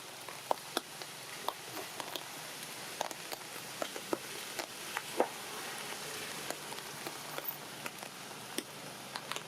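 Rain falling: a steady hiss with scattered sharp ticks throughout.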